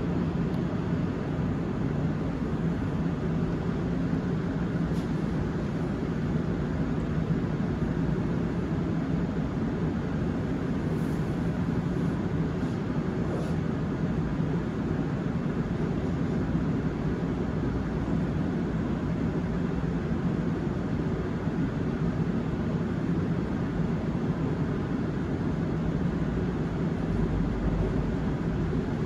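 Seoul Subway Line 7 7000-series electric train heard from inside the car while running: a steady rumble with a constant low hum, and a few faint light ticks partway through.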